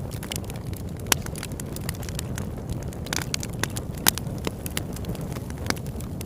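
Campfire crackling: irregular sharp pops and snaps over a steady low rumble of burning wood, with the loudest pops about a second in and about four seconds in.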